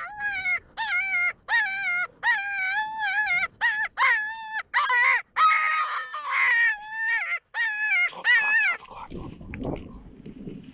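Coyote predator call sounded in a string of about a dozen short, high, wavering whimpering yelps, imitating a coyote to draw one in. The yelps stop about nine seconds in, and a low rumbling noise follows.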